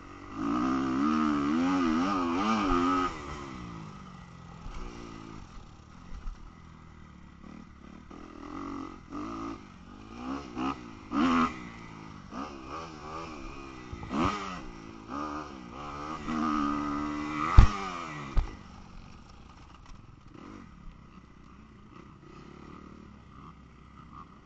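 Motocross dirt bike engine revving in short bursts, its pitch rising and falling, loudest in the first few seconds. Two sharp knocks about two-thirds of the way through.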